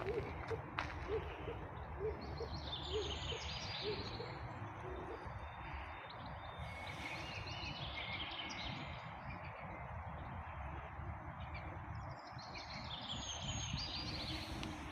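A small songbird singing three phrases of quick high notes that step downward, about two seconds in, in the middle and near the end, over a steady background hum of outdoor noise. A few short low calls repeat in the first few seconds.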